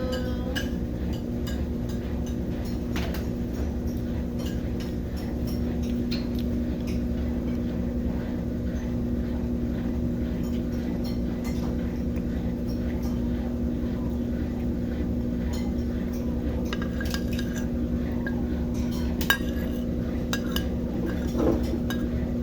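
Brastemp BWK17 17 kg washing machine in its spin cycle: a steady motor hum at an unchanging pitch. Scattered light clinks like dishes and cutlery sound over it, with a sharper click about nineteen seconds in.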